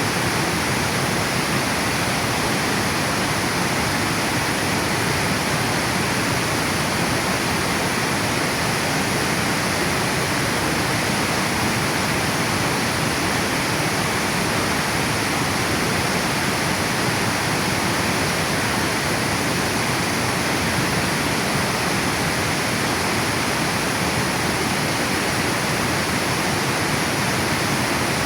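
Water pouring over a river dam: a loud, steady rush of falling and flowing water.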